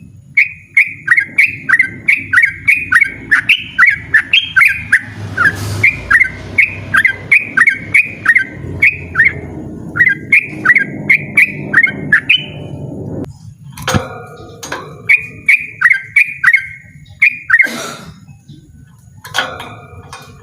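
Yellow-vented bulbul (trucukan) singing a loud rapid-fire 'ropel' song: a long run of short, falling whistled notes, about three a second. After a brief break about two-thirds of the way in, the song resumes with a shorter run and harsher, scratchier calls.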